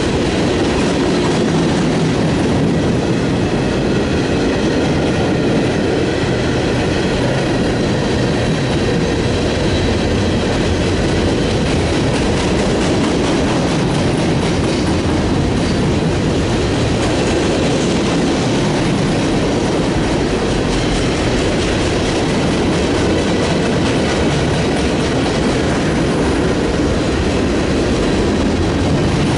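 A train's railroad cars rolling past, a loud, steady run of wheel-on-rail noise.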